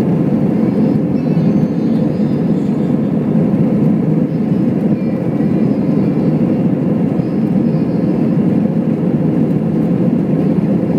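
Steady roar of engine and airflow noise inside the passenger cabin of an Airbus A321 in flight, even and unbroken.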